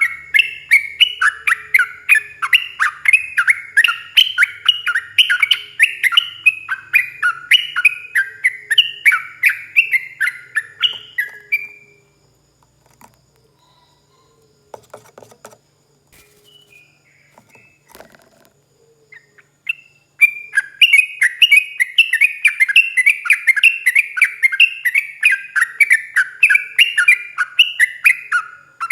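Yellow-vented bulbul (trucukan) singing a long, rapid run of chirping notes. The song breaks off about twelve seconds in and resumes about eight seconds later.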